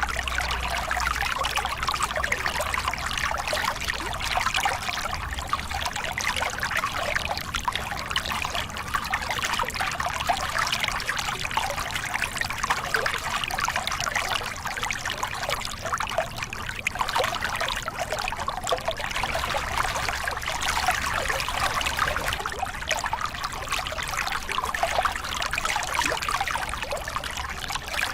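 Small river cascade: water spilling and splashing over rocks in a steady, continuous rush.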